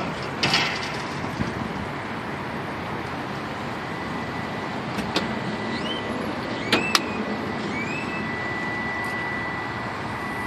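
A few light clicks from a car door handle and latch as the door is opened, over a steady background noise. Short chirps come in during the second half, followed by a thin, steady high tone near the end.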